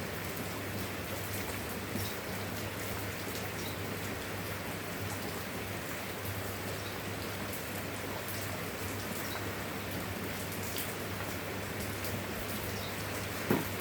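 Steady rain falling, with scattered single drops striking a surface over a low steady hum. One louder drop or knock comes near the end.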